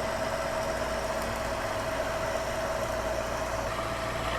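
Bridgeport vertical milling machine running with an end mill taking a slow cut into a metal block: a steady machine hum with a constant whine, unchanging throughout.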